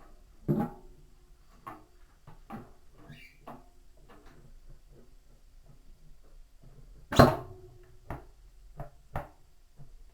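Washing machine parts being handled and knocked together: a run of separate clanks and knocks, two of them loud (about half a second in and about seven seconds in), several ringing briefly like metal.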